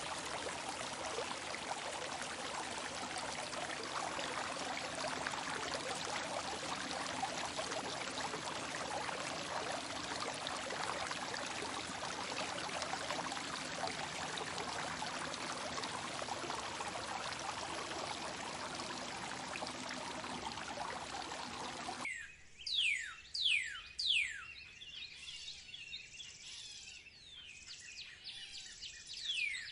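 Running water, a steady even rush like a stream, that cuts off abruptly about three-quarters of the way in. Bird calls follow: a series of quick, high whistles, each falling sharply in pitch.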